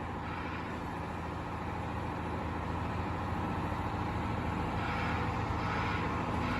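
Diesel engine of a Cat 352 excavator running steadily as the machine works, a low hum that grows slightly louder in the second half.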